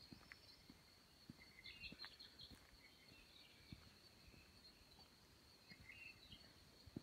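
Faint rain forest ambience: a steady high-pitched hum, with bursts of short bird chirps about two seconds in and again near six seconds, and scattered soft low taps.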